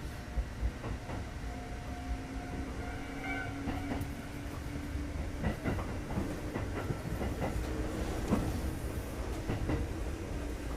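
Kintetsu 2430 series electric train running, heard from inside the car: a steady rumble with scattered clicks of the wheels over rail joints and a faint steady tone.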